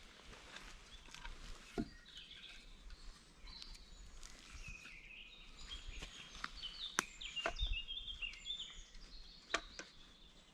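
Several small songbirds singing and chirping in woodland, with a few sharp clicks or knocks in between, the loudest about seven seconds in.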